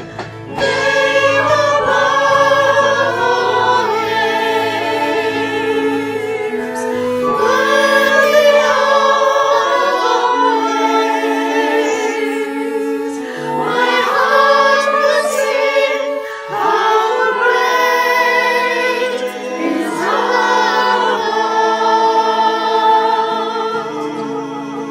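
Worship song: group singing in phrases of a few seconds, with vibrato, over sustained instrumental accompaniment, easing off slightly near the end.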